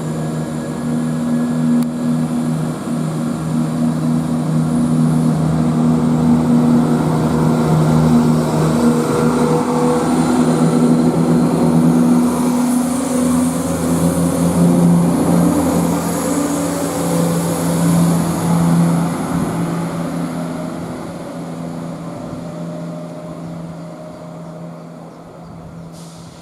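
Class 170 Turbostar diesel multiple unit pulling away, its underfloor diesel engines running with a steady low drone that builds to a peak partway through and then fades as the train draws off. A short click near the end.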